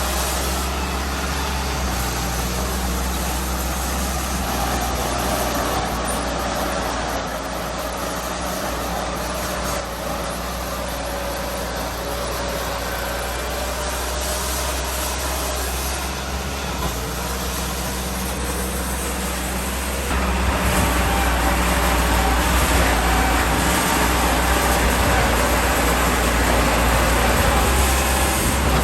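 Heavy diesel earthmoving machinery running steadily under load, with a deep engine rumble, growing louder about twenty seconds in.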